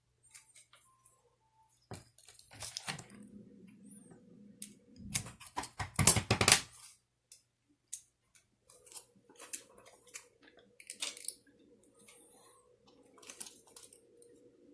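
Small hand-work noises on a car clock spring being repaired: scattered clicks and rustling, with a louder crackling scrape about six seconds in and a faint steady hum in the second half.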